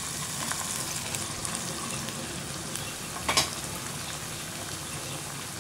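Steady sizzle of onions and peanuts frying in oil in a pan as pulped tomatoes go into the hot oil. One sharp knock about three and a half seconds in.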